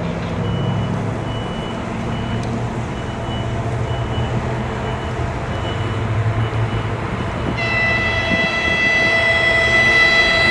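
2TE25KM diesel locomotive hauling a freight train, its engine rumbling steadily as it approaches, with a faint high beep repeating about once a second. About three quarters of the way in the locomotive's typhon (air horn) sounds one long, loud blast that carries on past the end and grows louder.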